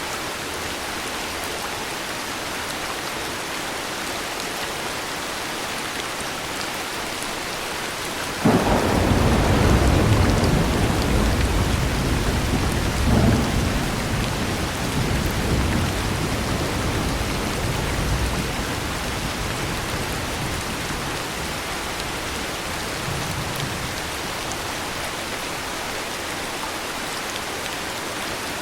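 Steady heavy rain, with a thunderclap about a third of the way in: a sharp crack that turns into a long low rumble, which swells once more and slowly rolls away over about ten seconds.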